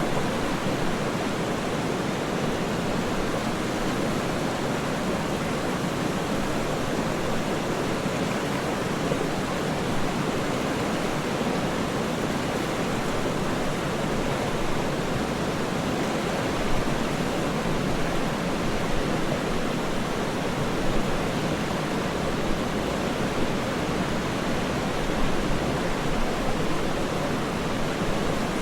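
Waterfall rushing in a steady, even roar, heavy in the low and middle range, with no change in level.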